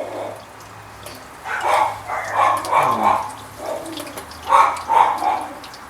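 A dog barking repeatedly, in two bouts of several barks each.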